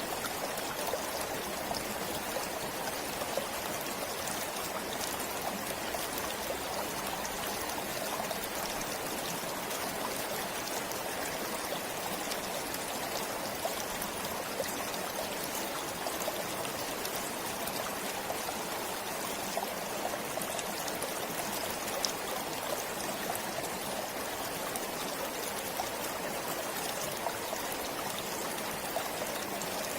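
Forest stream flowing steadily, water splashing and trickling over rocks.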